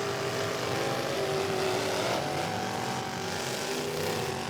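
Engines of several pickup trucks running and revving in a demolition derby, a steady drone of mixed engine noise.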